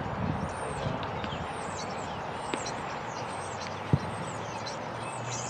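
Steady open-air background noise with a small bird repeating short, high, falling chirps. A single sharp knock about four seconds in, with a fainter click a little before it.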